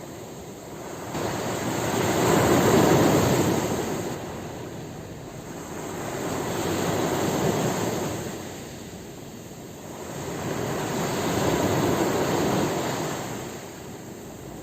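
Ocean waves breaking on a shore in slow surges, three swells of rushing surf about every four to five seconds, each building and fading away.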